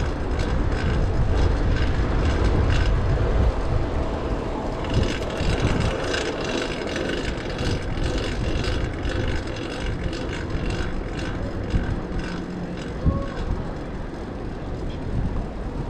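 Wind buffeting the microphone while riding a fixed-gear bike, over the chain noise of a loud drivetrain running on a new rear cog.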